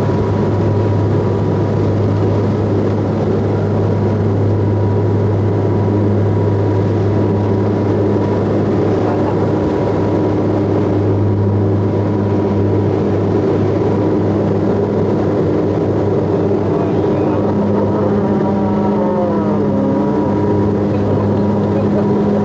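Aircraft engines droning steadily, heard inside the passenger cabin as a loud constant rush with a low hum and several steady tones.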